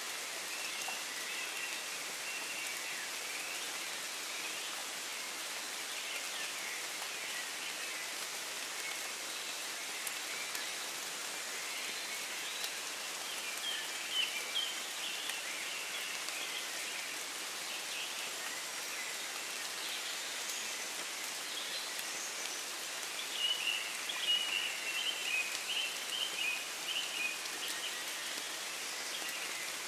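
Steady rain falling in woodland, an even hiss of drops, with birds of the dawn chorus chirping over it, in a flurry about halfway through and a longer run of chirps later on.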